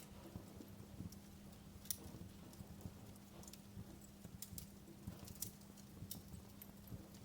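Wood fire crackling in a fireplace: irregular sharp pops and snaps, the strongest about two seconds in and again past five seconds, over a low rumble of burning with a faint steady hum beneath.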